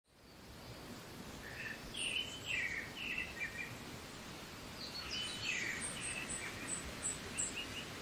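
Birds singing over a steady outdoor hiss, fading in from silence at the start. Two bouts of short, quick chirping phrases come about a second and a half in and again about five seconds in.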